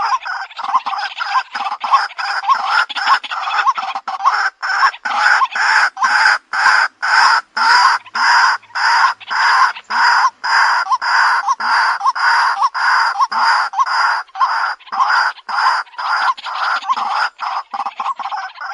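White-breasted waterhen lure call: a continuous run of repeated 'ruak-ruak' calls, about two to three notes a second.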